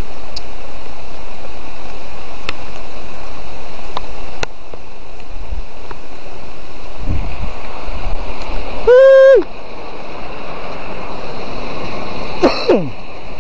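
Steady hiss of heavy rain, dropping a little in level about four seconds in. About nine seconds in a short, loud pitched sound cuts through, and near the end comes a brief falling squeal.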